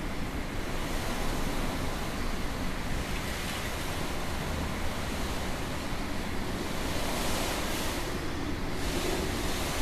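Typhoon wind blowing hard in gusts, a steady rush of noise that swells about three seconds in and again about seven seconds in.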